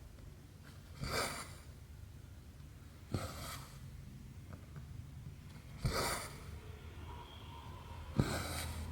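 Embroidery thread pulled through cross-stitch fabric: four short rasping pulls, one every two to three seconds, each starting with a sharp tick as the needle goes through.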